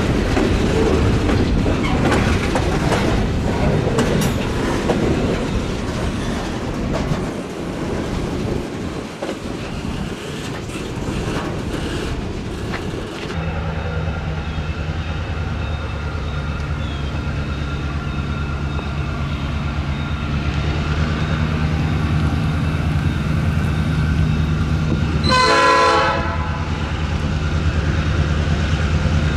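A freight train rolling past with an even rushing, clattering noise. It breaks off to the steady low drone of a GP38-2 diesel locomotive's EMD 645 two-stroke V16. A short horn blast sounds near the end.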